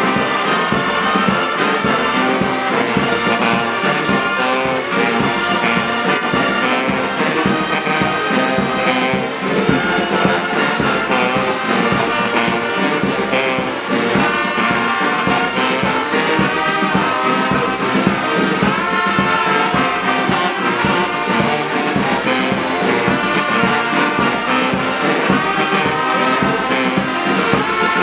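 Brass band music playing steadily and loudly without a break.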